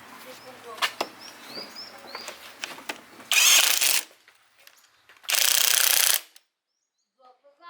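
Metal tools and parts clinking and knocking during machine repair work, then two loud bursts of hissing, each under a second long, about two seconds apart.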